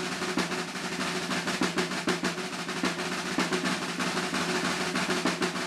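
Unaccompanied snare drum solo: a dense, unbroken run of fast strokes and rolls, played somewhat under tempo.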